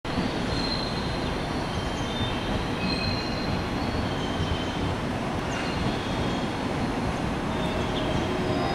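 JR West 115 series electric train arriving slowly at a station platform: a steady rumble of wheels on rail, with brief high-pitched squeals that come and go throughout.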